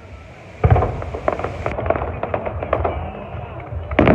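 Fireworks going off: a loud bang about half a second in, followed by a run of quick crackling pops, and another big bang near the end.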